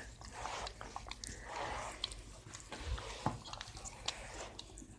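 A dog eating frozen dog ice cream: quiet, irregular wet chewing and licking noises with small clicks.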